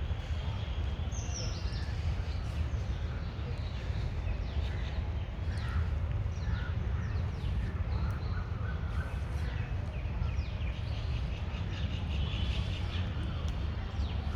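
Several birds chirping and calling in the trees, many short quick notes and falling calls overlapping throughout, over a steady low rumble.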